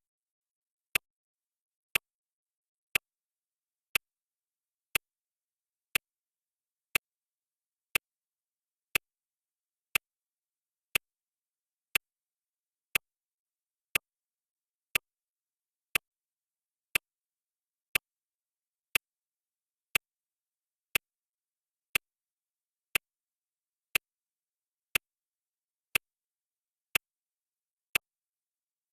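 Clock-tick sound effect for a countdown timer: one short sharp tick every second, evenly spaced, with silence between ticks.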